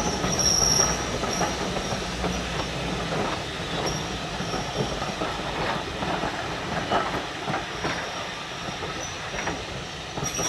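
Heritage railway train rolling past on the rails, its wheels clicking over rail joints, with a high wheel squeal that comes and goes. The squeal is loudest near the start, and the running sound eases off a little.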